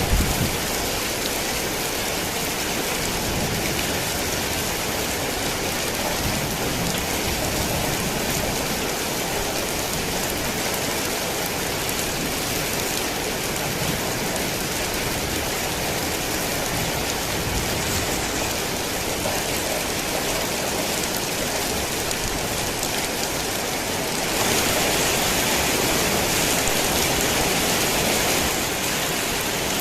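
Heavy rain falling in a steady, dense hiss. A brief low thump comes at the very start. The rain grows louder about 24 seconds in and eases back a little near the end.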